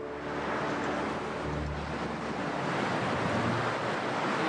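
A steady rushing noise of wind and water, like surf or a storm at sea.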